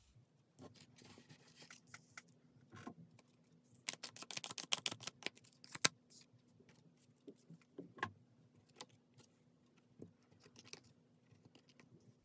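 Tarot cards being handled: a quick run of light rapid clicks about four to six seconds in, like cards being shuffled, then scattered single taps as cards are laid down.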